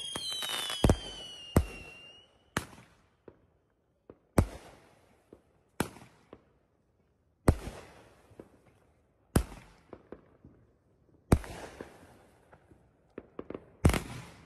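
World Class 'Battery Barrage' 15-shot firework cake firing: falling whistles die away over the first two seconds, then about nine sharp shots go off roughly every one and a half to two seconds, each trailing off, with a few smaller pops between them.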